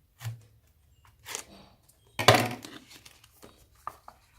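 Product packaging being handled and opened: a few scrapes and rustles, the loudest a short burst about two seconds in, followed by two light clicks.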